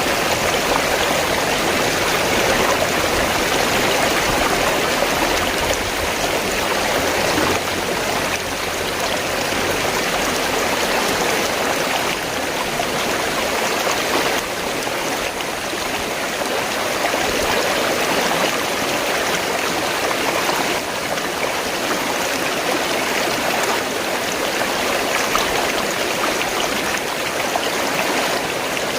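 River water flowing steadily: a continuous, even rush of moving water with no pauses.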